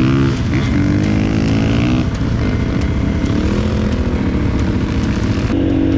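Single-cylinder KTM 450 enduro motorcycle engine running under throttle, its pitch rising and falling as it revs.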